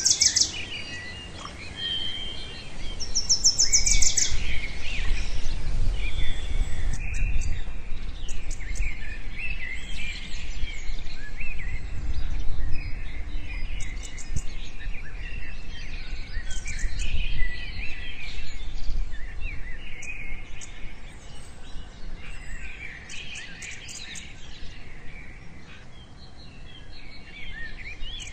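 Many wild birds calling and chirping together in a dense, overlapping chorus, with a few fast rattling trills near the start, over a low rumble.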